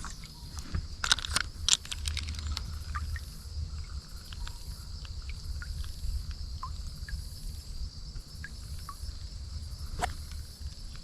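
Steady high-pitched insect chorus trilling throughout, with a few sharp knocks about a second in and again near the end.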